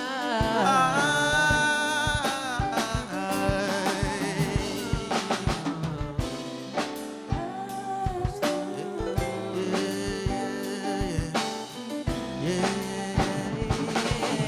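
Soul song played live by a band with drum kit: a held, wavering sung note and vocal runs without clear words over a steady drum beat.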